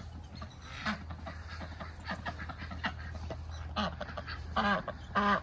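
Ducks calling: a few short calls, then a run of louder calls with wavering pitch near the end, over a steady low hum.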